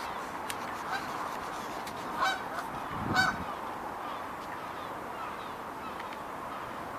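Two short calls from a large waterfowl, about a second apart, the second one louder, over a steady background hiss.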